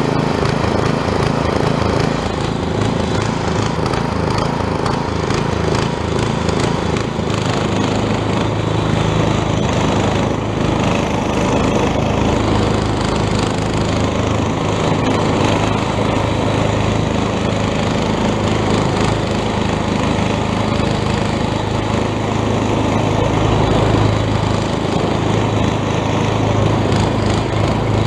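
Quadractor's 8 hp small engine running steadily with a continuous mechanical drone.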